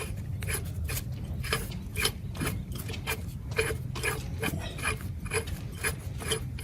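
Hand tools working on the metal of an old rusted diesel engine: irregular metallic clicks and scrapes, about two or three a second, over a low steady hum.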